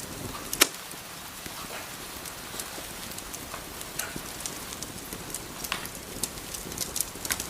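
Wood fire crackling in a fireplace: irregular sharp pops over a steady soft hiss, with the loudest pop about half a second in and a quick run of pops near the end.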